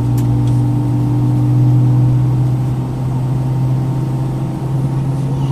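Steady, loud droning hum inside the cabin of an Airbus A319 airliner on the ground, with constant low tones over a rushing background noise.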